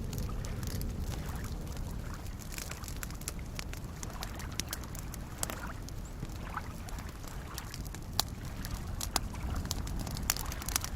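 Small waves lapping and gurgling at a lake shore over a steady low wash, mixed with the sharp crackles and pops of a wood campfire, which come more often in the last few seconds.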